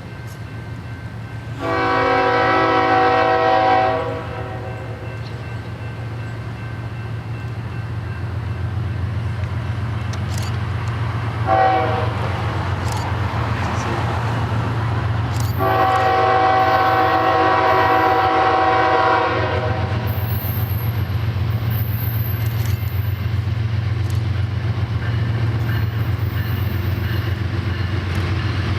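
A diesel locomotive's air horn sounding a long blast, a short toot about ten seconds later, then another long blast, over the steady rumble of the train's engines growing louder as it approaches.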